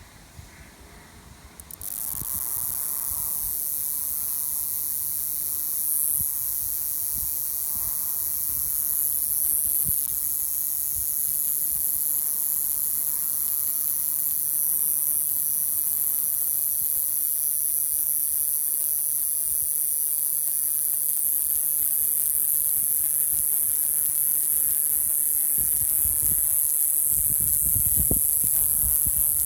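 Male cicada calling: a steady, very high-pitched buzzing hiss that switches on abruptly about two seconds in and then holds without a break.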